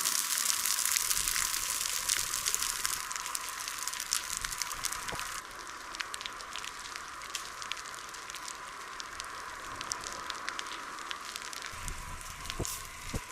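Burning forest vegetation crackling: a steady hiss with many small sharp pops, which drops in level about five seconds in.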